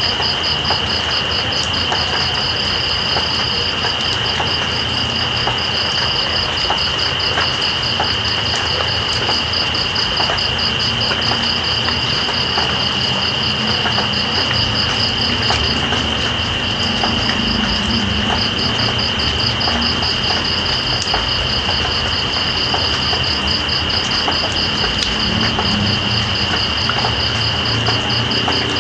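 Night insects, crickets, calling: one keeps up a continuous high trill while another chirps in a rapid, even pulse that pauses briefly about halfway. Under them runs a steady hiss of rain.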